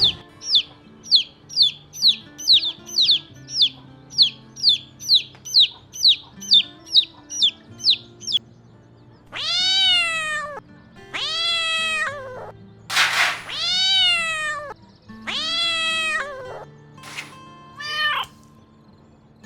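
A quick, even run of short, high, falling squeaks, about two a second for the first eight seconds. Then a cat meowing about five times in long drawn-out meows, over soft background music.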